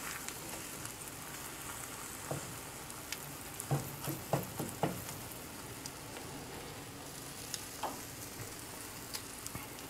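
Egg omelet with sausage sizzling steadily in a square frying pan. A slotted spatula scrapes and taps against the pan several times, most of them about four to five seconds in.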